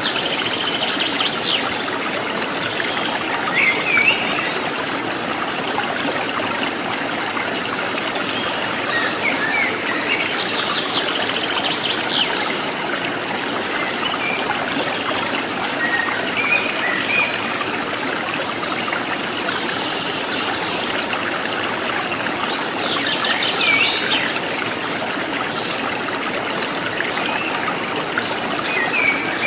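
Trickling stream water running steadily, with wild birds chirping and trilling now and then over it.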